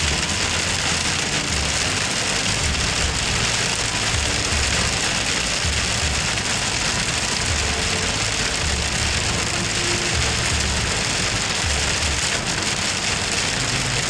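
Heavy rain pelting a car's windshield and roof, heard from inside the car as a steady hiss, with the windshield wipers sweeping and low thuds coming back every second or so.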